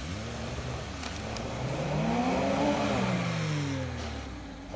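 Off-road vehicle's engine revving up and easing back down, loudest about halfway through.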